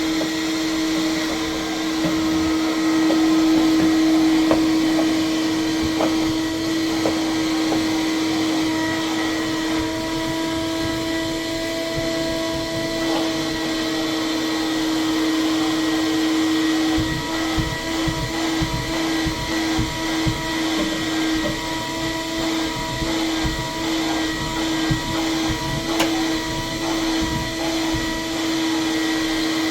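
Household vacuum cleaner running steadily, a constant motor whine over a rushing hiss of air. From about halfway through, the whine flutters rapidly and low bumps and knocks mix in.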